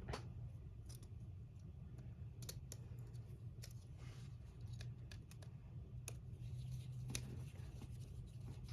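Scattered light clicks and scrapes of small plastic model-kit parts being handled and a tiny screw being driven in, over a faint steady hum.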